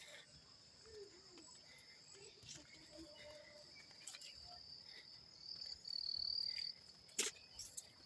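Crickets chirring steadily in the evening, one trilling louder for about a second just past the middle. A single sharp click near the end.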